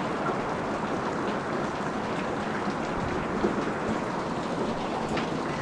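Steady rain falling as an even hiss, with a few sharper drips standing out now and then.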